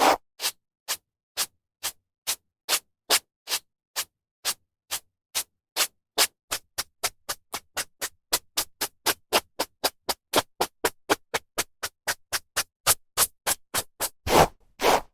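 A brush stroking through hair in short swishes, about two a second at first, quickening to about four a second in the middle, then slowing again. Near the end come two longer, louder strokes.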